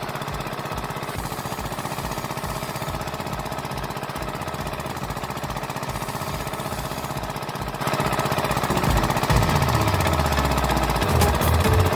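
Small motor-driven miniature machine running with a fast, even rattle, getting louder about two-thirds of the way through.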